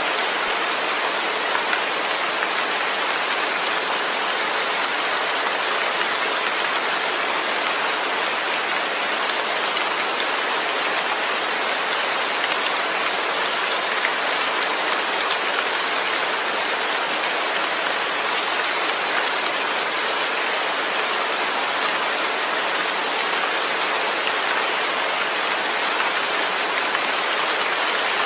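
Steady rain falling, an even unbroken hiss of drops with no thunder.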